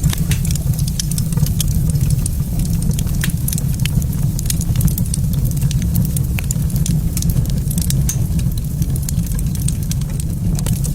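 Fire burning in a fireplace, crackling with many small irregular pops over a steady low rumble.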